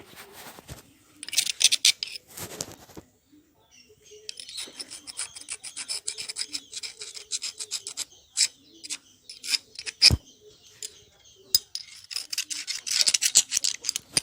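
Rust being scrubbed or rasped off metal water-pump parts by hand, in runs of quick, rough strokes. There is a single sharp knock about ten seconds in.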